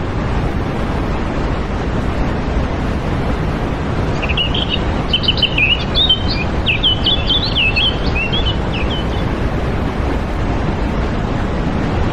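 Steady outdoor rushing noise, like wind on the microphone, with a small bird chirping a quick run of high notes from about four to nine seconds in.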